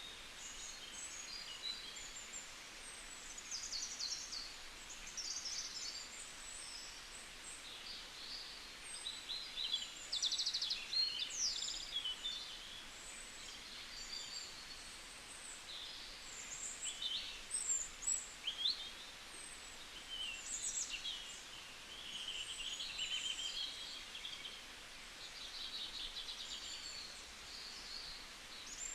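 A flock of birds chirping and calling together: many short, high calls overlapping one another without a break, loudest in clusters around ten to twelve seconds in and again around seventeen to nineteen seconds.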